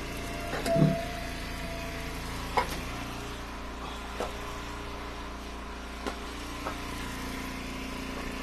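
Engine of a wood splitter running steadily, its note changing about three seconds in. A few sharp knocks of split firewood pieces land over it, the loudest just under a second in.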